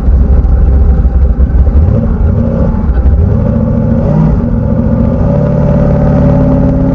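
Twin-turbo big-block V8 of a car running under way, loud. Its note changes about two and three seconds in, then settles into a steady, slowly rising drone from about five seconds on.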